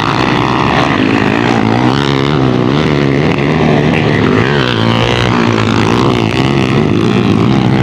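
Several underbone motorcycles racing, their engines revving together in overlapping pitches that rise and fall.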